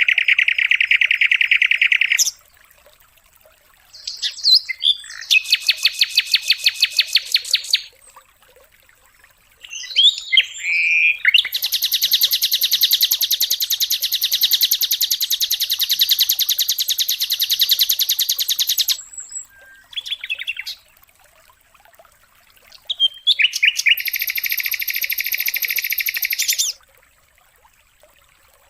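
White-rumped shama (murai batu) song: bursts of fast, evenly repeated trilled notes in four long phrases with short pauses between, the longest running about seven seconds in the middle, and quiet near the end.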